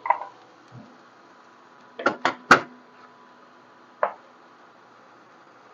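Sharp clicks and knocks of hard kitchen items being handled while seasoning goes into the pan. One comes at the start, three follow in quick succession about two seconds in, and a single one comes about four seconds in.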